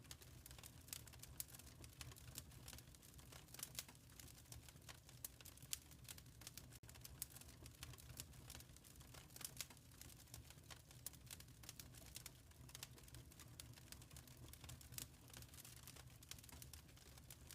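Faint wood fire crackling in a fireplace: irregular quick snaps and pops over a low, steady rumble of the flames.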